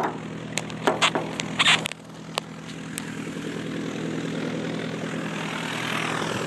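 A few sharp clicks and knocks, then after about two seconds the steady sound of a light aircraft's propeller engine, slowly growing louder.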